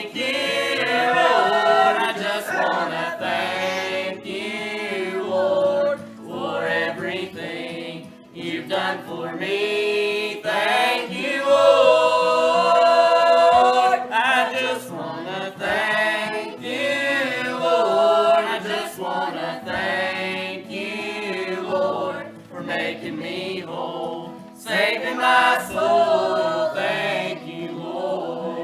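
A small group of voices singing a gospel song in harmony, with several long held notes, the longest about halfway through.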